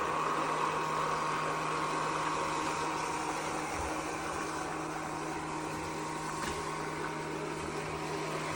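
ECOVACS DEEBOT X9 Pro Omni robot vacuum-mop running: a steady motor hum with a held whine, and a few soft low thumps.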